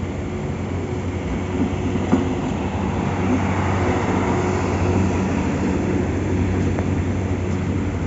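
Heavy diesel engines running steadily with a low hum, the noise swelling in the middle, and a sharp click about two seconds in.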